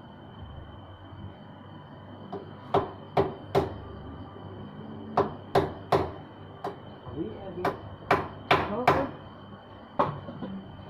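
About a dozen sharp knocks with a short ring, from a tool striking during motorcycle repair work. They come in uneven groups of two or three, starting about three seconds in.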